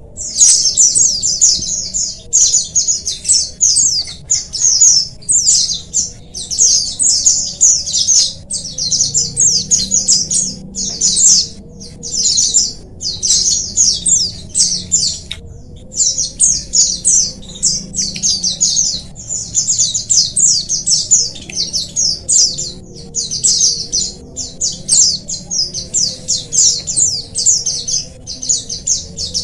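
A flock of white-eyes (pleci) chirping together in dense, rapid, high-pitched twittering phrases of a few seconds each, with short breaks between them.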